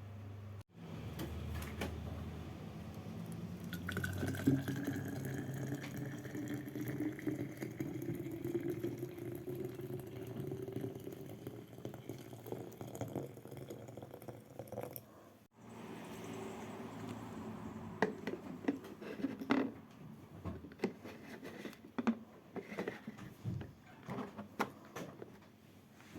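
Water running into a container, its pitch rising slowly as the vessel fills, followed by a scatter of light clicks and knocks.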